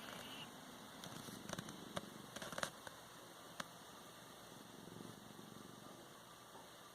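Domestic cat purring steadily while being stroked, with a few sharp clicks and rustles over the first few seconds.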